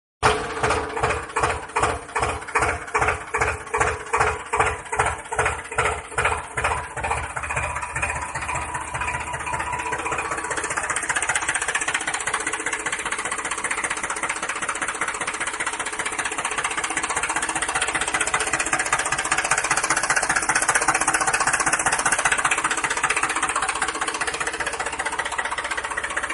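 Small motor of a homemade water pump running. It pulses about twice a second at first, and the beats quicken until, after about ten seconds, they merge into a steady whirring.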